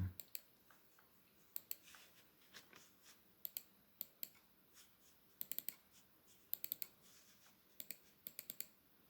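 Faint, light clicking at a computer: sharp single clicks and quick runs of three to five clicks, scattered irregularly.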